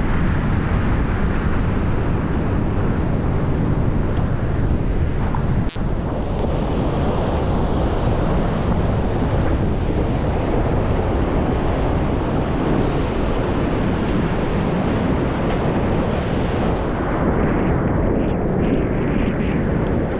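Wind buffeting the microphone over the steady rush of breaking Gulf surf, with a brief dropout about six seconds in.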